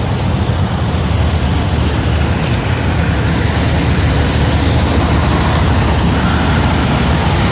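Steady low rumble of diesel truck engines running, with a constant hiss of traffic noise.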